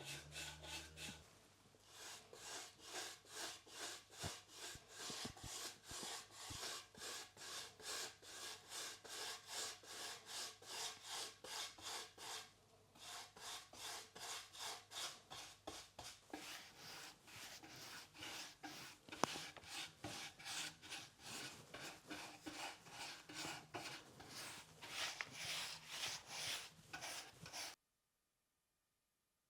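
Repeated rhythmic scraping or rubbing strokes, about two a second, with two short pauses, stopping abruptly near the end.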